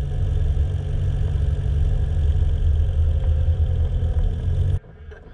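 Sports car engine running at low revs, heard close up from its louvred engine cover, then switched off about four and a half seconds in, the rumble cutting off suddenly.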